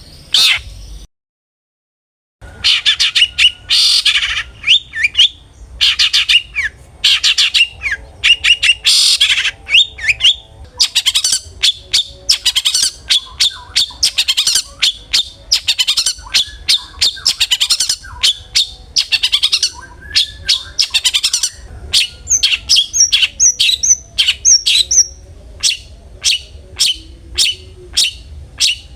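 Long-tailed shrike (cendet) singing loudly in rapid runs of harsh, chattering and squawking calls. The sound cuts out completely for about a second near the start. Toward the end the song turns into separate sharp notes repeated about three times a second.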